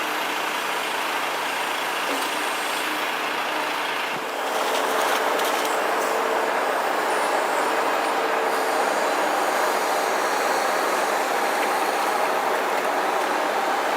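Walking-floor bulk truck running: a steady, noisy mechanical sound that gets louder about four seconds in and then holds.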